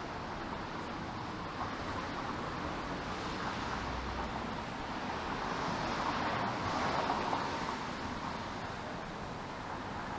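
Street traffic noise with the tyre hiss of a vehicle passing on wet pavement, swelling to its loudest around six to seven seconds in and then fading.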